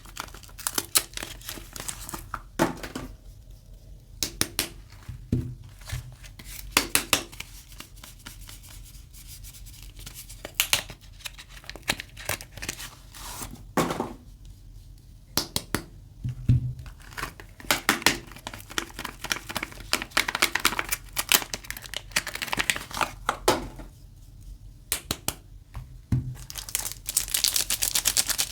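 Soap bar packaging being unwrapped by hand: crisp crinkling and tearing of the wrapping in irregular bursts of crackles with short pauses between them, turning into a steady crinkle near the end.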